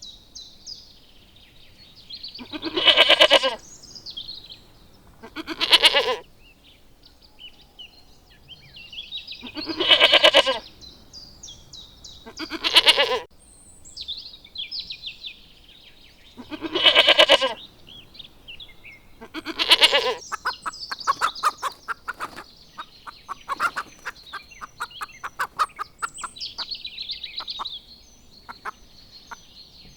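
A goat or sheep bleating: six loud calls of about a second each, every one with a wavering tremble, spaced a few seconds apart. Small birds chirp throughout, and a rapid run of clicks follows the last call.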